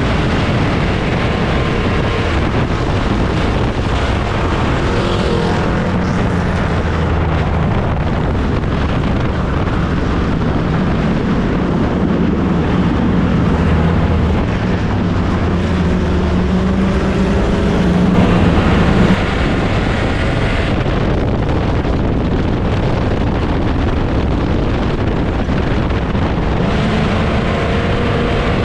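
Race car engines running hard on a dirt oval, their pitch rising and falling with the throttle. The sound swells to its loudest around eighteen seconds in, then drops off sharply.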